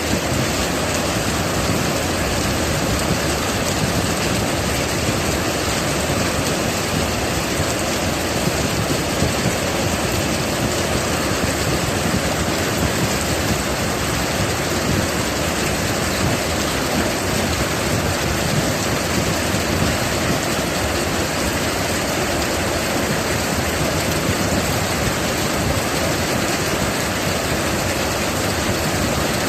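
Heavy rain in a steady, loud downpour during a thunderstorm.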